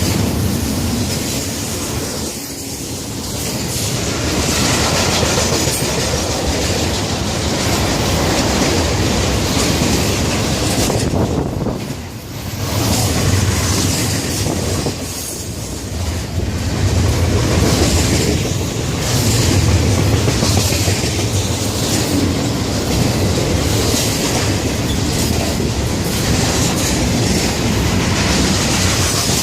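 Florida East Coast freight train's cars rolling past at close range, wheels clacking steadily over the rail joints, with a few brief dips in the noise.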